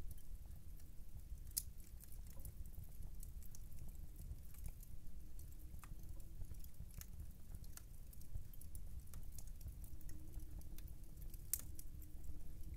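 Wood fire in a fireplace crackling, with irregular sharp pops over a low steady rumble of the flames, a couple of louder pops standing out. A clock ticks in the background.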